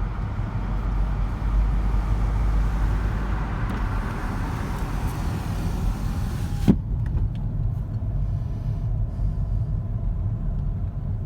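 A car on the move: a steady low rumble with road hiss. About two thirds of the way through there is a single sharp knock, after which the hiss drops away and only the low rumble remains.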